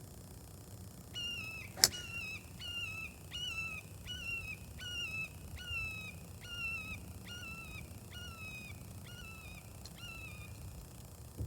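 A bird calling a long run of about sixteen short notes, each falling slightly in pitch, at a steady pace of about two a second. Just before two seconds in, one sharp crack: a golf club striking a ball.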